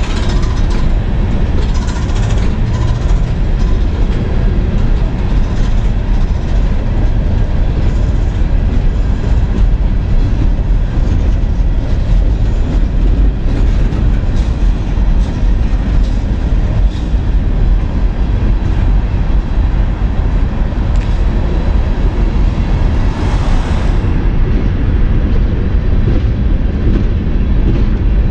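Empty coal hopper cars of a CSX freight train rolling past on the rails: a steady loud rumble with a run of clicks from the wheels. A brief louder rush of noise comes about 23 seconds in.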